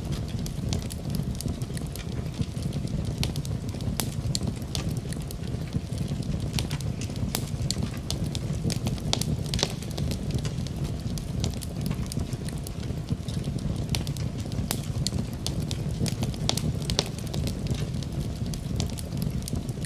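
Wood fire burning in a fireplace: a steady low rumble of flame with frequent irregular sharp crackles and pops from the burning wood.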